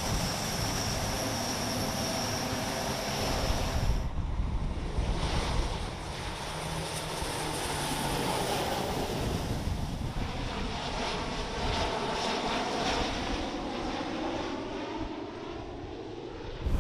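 Aircraft engines running with a steady high whine; the sound changes abruptly about four seconds in, and a slow rise in pitch comes near the end.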